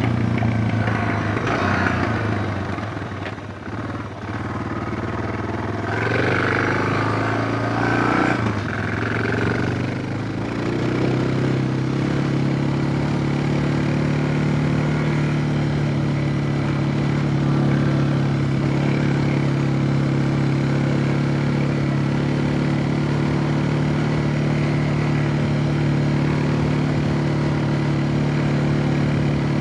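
Suzuki DR650's single-cylinder four-stroke engine running. Its note rises and falls, dipping briefly about three seconds in, then settles at about ten seconds to a steady, unchanging pitch.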